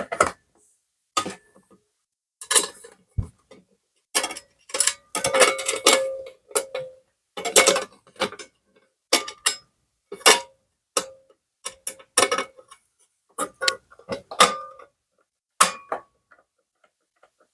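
Irregular metallic clicks and taps, some with a short ring, as small screws are handled and set by hand into the pilot holes of a sheet-metal (tin) roof on a wooden nesting box.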